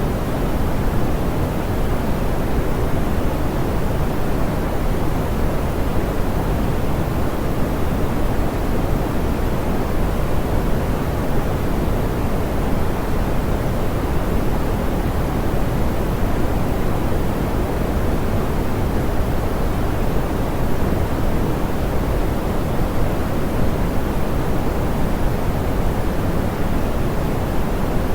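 Steady, smoothed pink noise: an even, unchanging hiss weighted toward the low end, soft in the highs.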